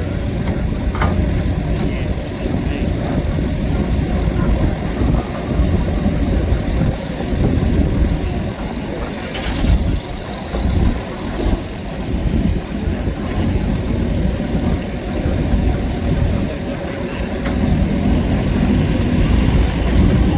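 Chamberlain 9G tractor's diesel engine running loudly, its level rising and falling, at a tractor pull. There is a brief noisy burst about nine and a half seconds in.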